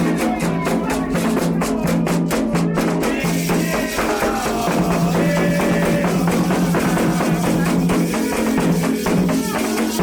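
Candomblé ritual music: drums and rattles played in a fast, steady rhythm, with voices singing over them partway through.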